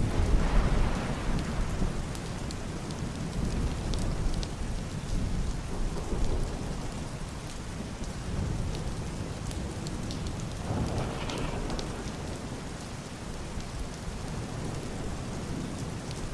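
Heavy rain hissing steadily on a roof and glass window, with scattered sharp drop ticks. A muffled peal of thunder rumbles loudly at the start and fades over about two seconds, and a softer swell comes about eleven seconds in.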